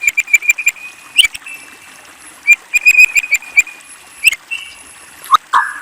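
White-rumped shama (murai batu) singing: quick runs of clear repeated high notes, broken by a couple of sharp upward-sweeping notes, with lower, fuller phrases starting near the end.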